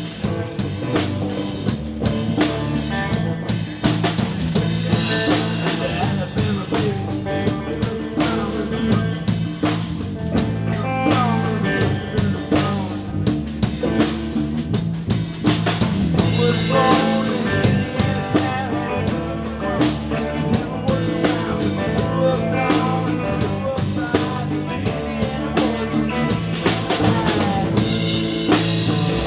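Live blues band playing an instrumental stretch: a drum kit keeps a steady beat under bass and a lead guitar playing bent notes.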